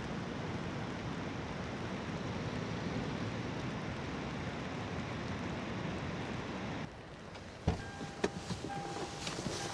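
Steady rushing noise that cuts off abruptly about seven seconds in, followed by a few sharp knocks and clicks.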